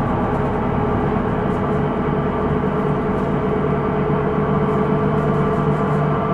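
Hino Rainbow II non-step bus running, heard from inside: a steady drivetrain drone with a high, ringing whine on top, the abnormal noise this bus is known for.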